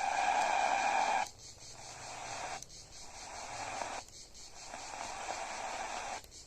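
Radio receiver's loudspeaker hissing with static between stations, in stretches broken by short dropouts about every second and a half. A whistling tone sounds over the static for the first second or so.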